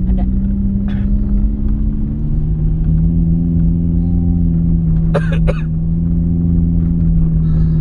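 Toyota Calya engine and road noise heard inside the cabin while driving slowly, a steady low drone that drops slightly in pitch two to three seconds in and then holds. Two short sharp clicks come a little after five seconds.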